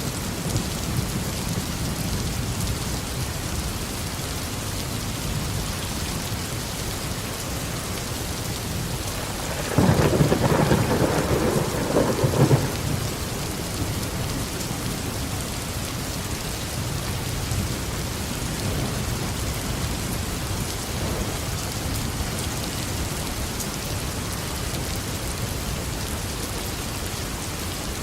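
Steady tropical rain falling, with a sudden clap of thunder about ten seconds in that rumbles on for about three seconds, deepest and loudest in its low range.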